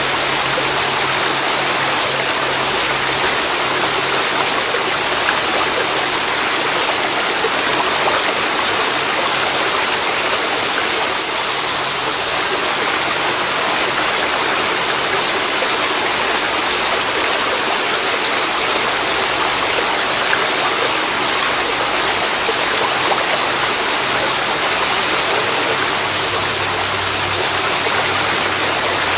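Waterfall pouring into a river: a steady rush of falling and flowing water, even and unbroken.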